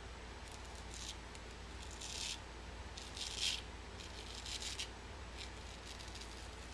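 Freshly honed FWE straight razor cutting beard stubble through shaving lather: a series of short, rasping scrapes about one a second, the loudest about three seconds in.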